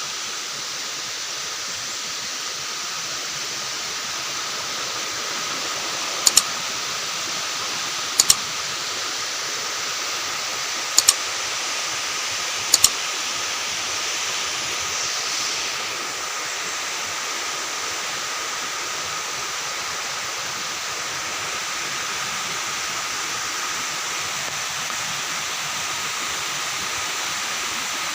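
Waterfall rushing steadily. Four short, sharp double clicks come a couple of seconds apart in the middle.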